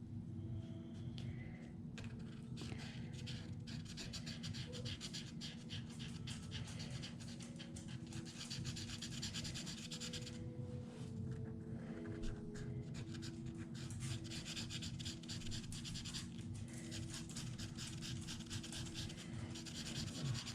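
Felt-tip blending marker rubbed in quick back-and-forth strokes over a small wood sticker: a soft, dry scratching that runs in spells, with a brief pause about ten seconds in.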